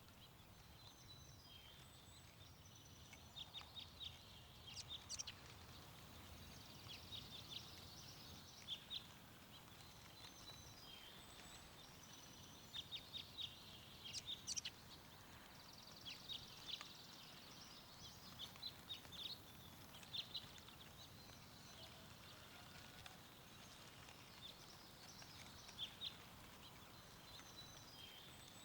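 Songbirds chirping and trilling in short repeated bursts over a faint steady wind rumble.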